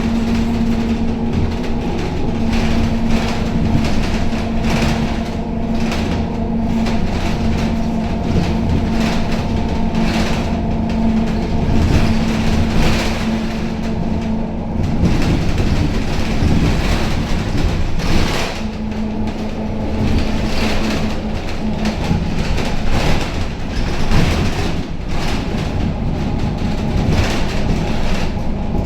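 Cabin noise of a Scania K270UB city bus under way: a steady diesel drone and hum from the rear engine and drivetrain, which fades for a few seconds around the middle and comes back. The body and fittings rattle and knock often over the road.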